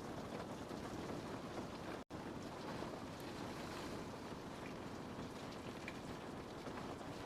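Steady rain on a window pane, an even hiss with faint scattered ticks of drops. It cuts out completely for an instant about two seconds in, then carries on.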